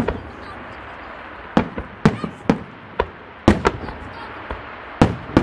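Aerial fireworks shells bursting overhead: about ten sharp bangs at uneven intervals, several in quick clusters around two and three and a half seconds in, over a steady hiss between the bursts.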